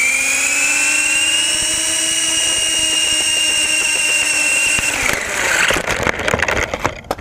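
Small RC helicopter's electric motor and rotor whining, rising in pitch as it spins up and then holding steady. About five seconds in the whine stops and irregular clattering and knocking follows, as the launch fails with the weight of a GoPro Hero 3 camera on the airframe.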